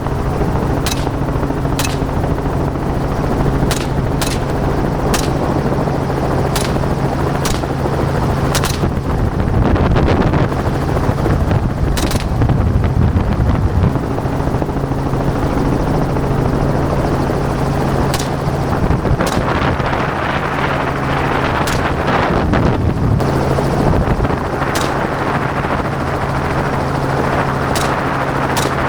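Helicopter running steadily in flight, with sharp cracks of gunshots at irregular intervals, about fifteen in all, heard over the engine and rotor noise.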